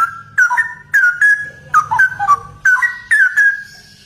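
Straw-headed bulbul (cucak rowo) singing a loud, rapid run of whistled notes that glide down and up, phrase after phrase, stopping near the end.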